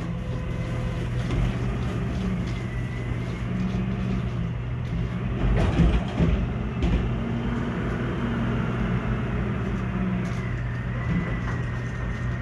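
Garbage truck engine running steadily with a low hum, and a loud clank about halfway through.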